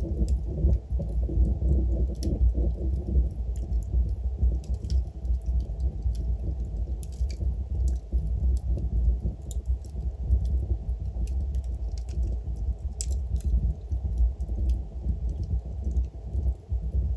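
Wood fire in a fireplace burning steadily with a low rumble of flames and frequent irregular sharp crackles and pops from the logs.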